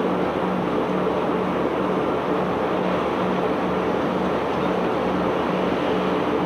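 Heavy unloading machinery on a cargo barge running steadily, with a low hum that pulses about one and a half times a second.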